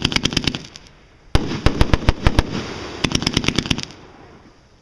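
Fireworks going off in three volleys of rapid sharp cracks and bangs, about a second and a half apart, each with a lingering rumble and fading out near the end.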